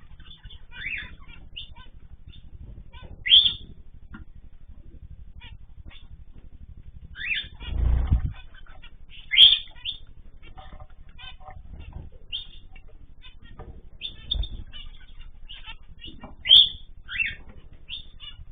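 Pet cage birds chirping with short, scattered calls, and a few low fluttering thumps that fit wings flapping, the loudest a little before halfway.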